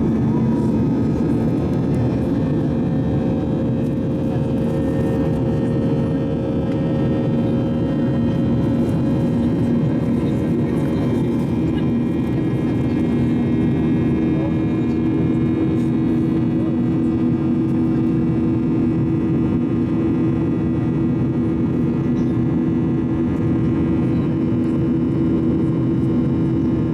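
Boeing 737-800's CFM56 turbofan engines droning steadily in the climb, heard from inside the cabin, with a few steady hums running through the noise.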